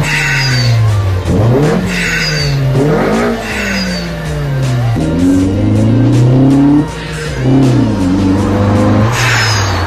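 Car engine sound revving up and down over and over, the pitch rising and falling every second or two, with short high squeals about every two seconds in the first half and again near the end.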